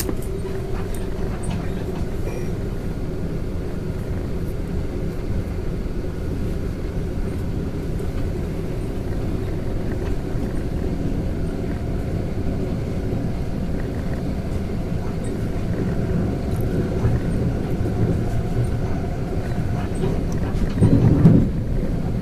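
Regional passenger train running, heard from inside the carriage as a steady low rumble, with a louder surge near the end.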